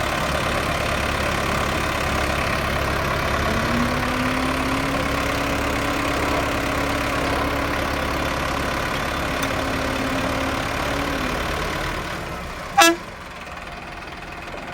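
Tractor engine running hard, its pitch climbing about three seconds in, holding steady and easing off about eleven seconds in as it strains to pull out of the mud. Near the end comes one short horn toot.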